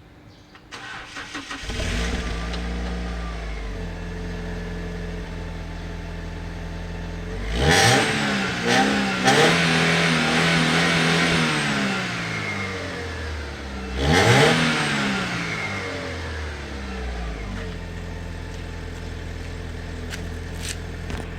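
Alfa Romeo 156 2.0 Twin Spark inline-four on its stock exhaust, starting about a second in and settling from a fast idle to a steady idle. It is revved up hard about a third of the way through, held and stepped down for a few seconds, then given a second sharp rev that falls back to idle.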